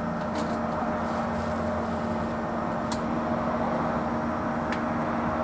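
Electric fuel lift pump on a 6.2 diesel humming steadily with a couple of faint ticks, while the engine won't fire and poor fuel pressure is suspected.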